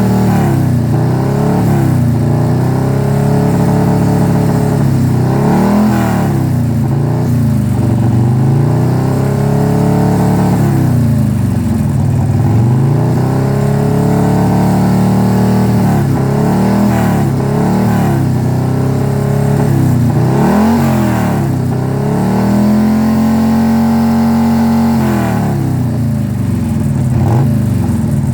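Engine revved repeatedly: the revs rise and fall in a series of blips, and are held up for a couple of seconds about three-quarters of the way through. The engine is being run to show how it sounds now that its knock sensor has been relocated.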